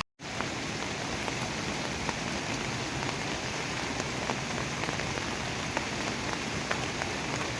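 Steady rain falling: an even hiss with many scattered sharp drop ticks, cutting in abruptly just after the start.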